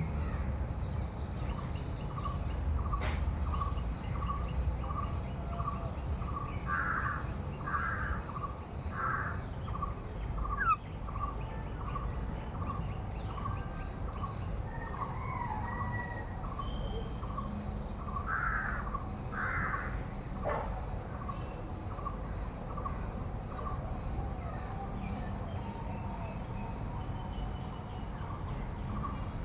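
Birds calling outdoors: one bird repeats a short note evenly, about three every two seconds, while crows caw three times and later twice. A steady high hiss and a low rumble run underneath.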